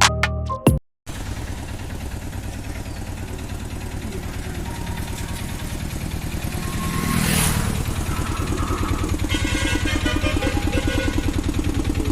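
Auto rickshaw engine running with an even, rapid beat, swelling louder for a moment in the middle. Intro music cuts off about a second in.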